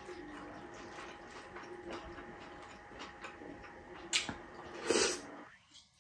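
Close-up eating sounds: wet chewing and mouth smacking as food is eaten by hand, with scattered small clicks. The loudest smack comes about five seconds in, then it goes briefly quiet.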